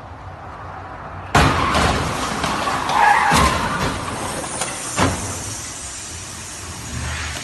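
Car crash: a sudden loud impact about a second and a half in, followed by crunching and shattering debris, with a second loud crunch about three seconds in and a sharp knock about five seconds in.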